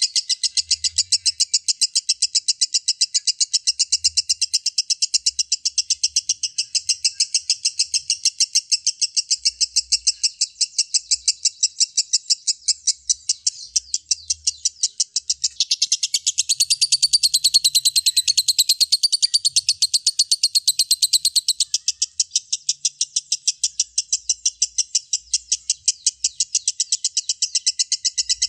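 Lovebird in long 'ngekek' song: an unbroken, rapid chatter of short, evenly repeated notes that never pauses, growing louder and shriller between about two-thirds and three-quarters of the way through.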